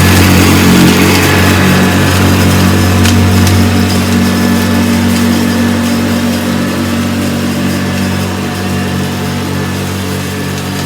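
Vintage Hoover Convertible U4005 upright vacuum cleaner running steadily, its beater bar working the carpet. The motor hum gradually fades, with a few brief sharp ticks.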